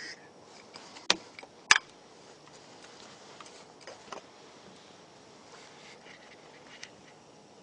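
Quiet outdoor stillness broken by a few sharp knocks or clicks, the loudest two about a second in and just under two seconds in, with fainter ones later.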